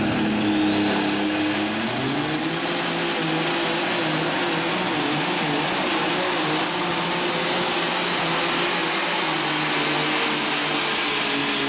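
Alcohol-burning super stock tractor engine of an International 3688 running at full throttle under load while pulling the sled. A high whine climbs steeply over the first two or three seconds and then holds, and the engine note steps up about two seconds in, staying loud and steady.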